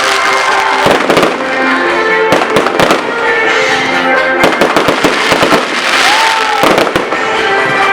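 Fireworks and firecrackers going off in rapid, irregular bangs and cracks over loud music.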